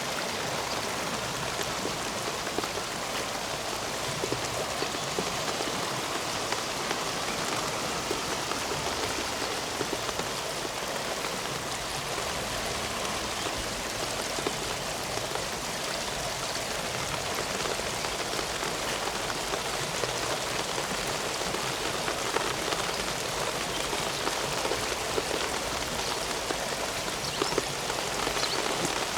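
Steady rain falling on hard surfaces, with many scattered drops ticking close by.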